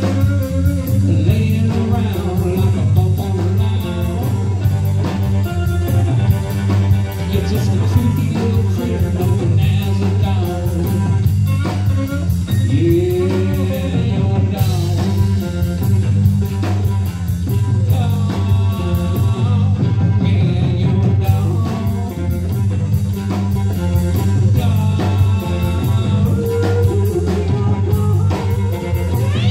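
Live band playing a slow blues-rock song: guitar over a steady bass line and drums.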